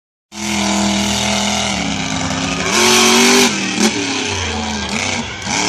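Monster truck engine running loudly at high revs. The pitch sags a little about two seconds in, then surges louder near the middle and eases off.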